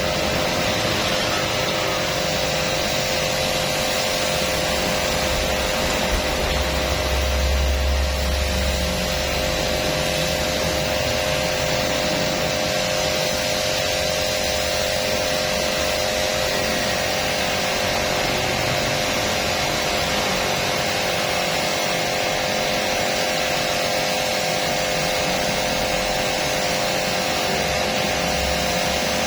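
Washing machine, likely a pressure washer, running steadily: a constant motor hum over a hiss of spray, with a brief low swell about seven seconds in.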